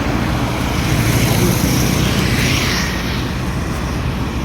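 Motorcycle engine running steadily while riding, with wind and road hiss over the microphone.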